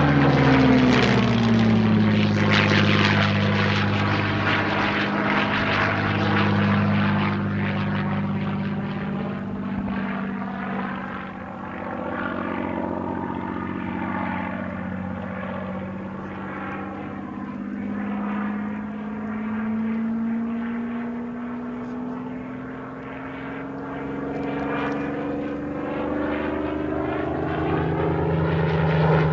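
Supermarine Spitfire Mk VIII's Rolls-Royce Merlin V12 engine and propeller during a flying display. It passes close at the start with its pitch dropping as it goes by, runs steadily and somewhat quieter through the middle, then rises in pitch and grows louder again near the end as it approaches.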